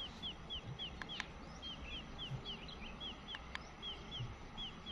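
A small bird calling faintly: a quick series of short, high notes that slide downward, about three a second, with brief pauses between runs. A few sharp ticks and soft low knocks sound under a steady outdoor hiss.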